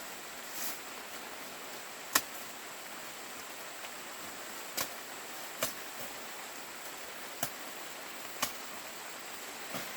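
Sharp snaps of ripe corn ears being broken off their stalks by hand, about seven in ten seconds at uneven intervals, the loudest about two seconds in, over a steady outdoor hiss.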